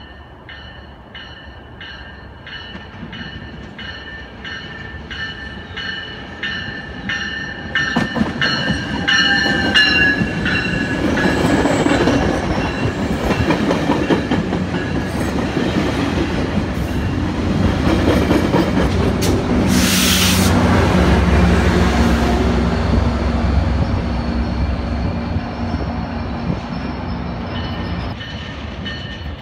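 Metrolink commuter train with bilevel coaches coming in and passing close, its wheels rumbling and clattering on the rails. The sound builds to its loudest a little past the middle, with a brief loud hiss and a low engine hum as the locomotive goes by. A bell rings about twice a second during the approach.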